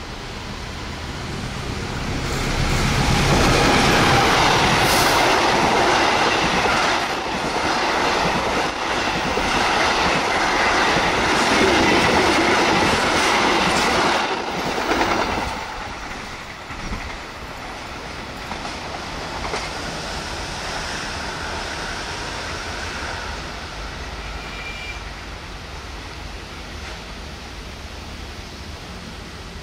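Diesel-hauled passenger train passing close by. The locomotive's low engine hum builds over the first few seconds, then the wheels of the coaches rumble and clack for about ten seconds. The sound drops off suddenly about halfway through and fades as the train draws away.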